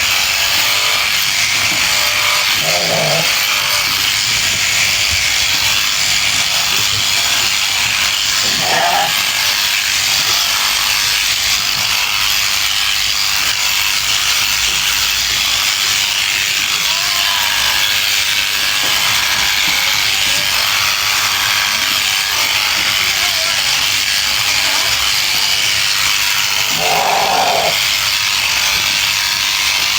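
Sheep-shearing clippers running with a steady hiss as they cut fleece. A sheep bleats briefly three times: about three seconds in, around nine seconds in, and near the end.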